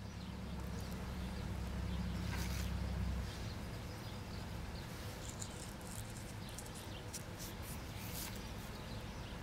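Small birds chirping faintly in short, high calls scattered through the clip, over a low rumble that stops about three seconds in.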